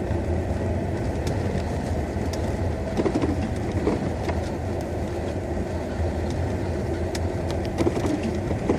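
Inside the cabin of a VAZ classic Zhiguli, its four-cylinder engine runs with a steady low hum under road and tyre noise while the car drives slowly through deep snow.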